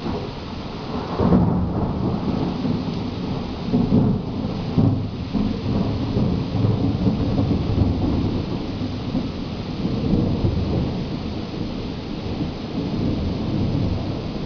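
Thunder rolling over steady rain in a thunderstorm. The rumble swells about a second in, peaks again around four and five seconds, and keeps rolling after that.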